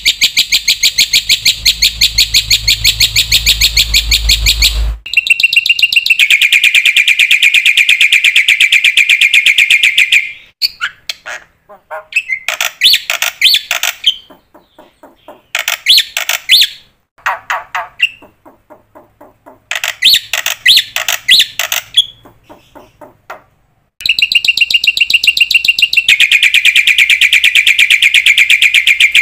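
A bird calling in long runs of fast, evenly repeated high chirps, stopping and starting several times.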